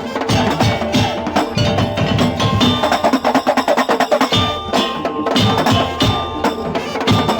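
Madurese daul (tong-tong) percussion ensemble playing: fast, dense strikes on wooden slit drums mixed with drums and ringing, bell-like metal tones.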